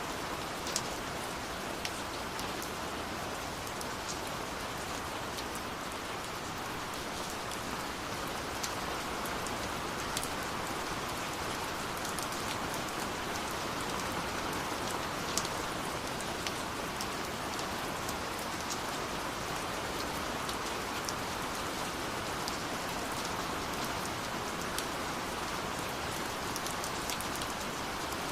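Steady rush of falling water from a waterfall, with scattered sharp pops and crackles of a wood fire over it.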